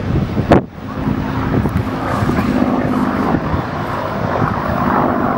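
Spitfire's Rolls-Royce Merlin V12 engine running in flight, heard over the air as a steady drone with wind noise on the microphone. A single sharp thump about half a second in.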